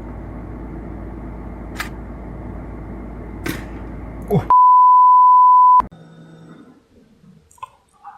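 A single steady electronic beep lasting just over a second, starting and stopping abruptly about four and a half seconds in. Before it comes a muffled, noisy background hum with two sharp clicks.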